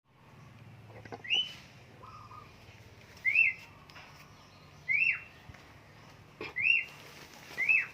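Sooty-headed bulbuls (kutilang) calling: five short, rising whistled notes about a second and a half apart, with a softer, lower call about two seconds in.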